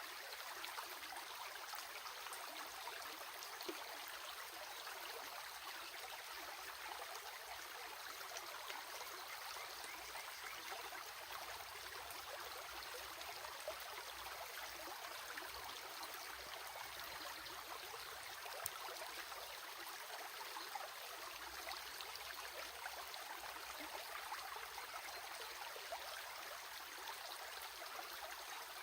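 Running water flowing steadily, a hiss of fine trickles with many small splashes.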